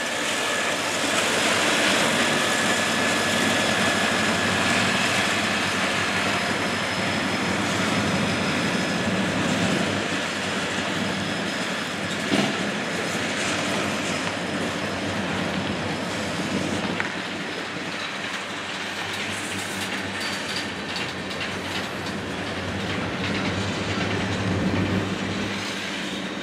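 Diesel freight train passing close by: EMD SD40-2 locomotives run past, then freight and tank cars roll by on the rails, with a continuous rumble. There is one sharp clank about halfway through.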